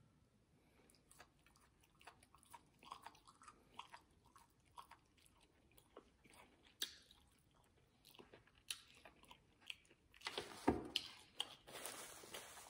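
Faint, close-miked chewing of a mouthful of food, with scattered small clicks of the mouth. From about ten seconds in, a paper napkin rustles and crinkles, louder than the chewing.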